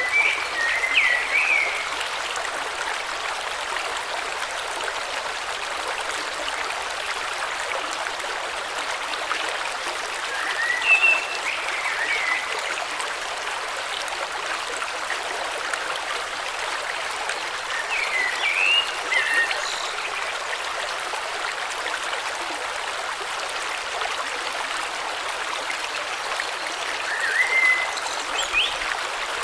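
A river flowing with a steady rushing sound. A bird calls in short chirping phrases four times, about every eight seconds.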